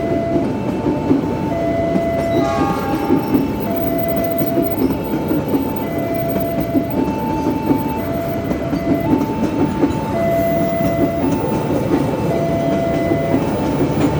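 A train passes with steady rumble and clatter. Over it a level-crossing warning alarm sounds, switching between two pitches every half-second or so.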